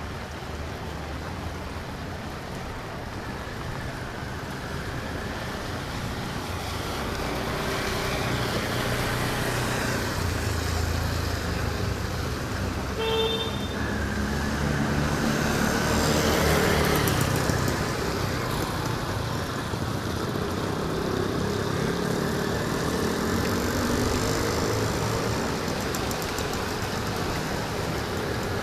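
Road traffic: a motor vehicle's engine grows louder and passes by about halfway through, over a steady hiss of tyres and traffic. A brief horn toot sounds just before it passes.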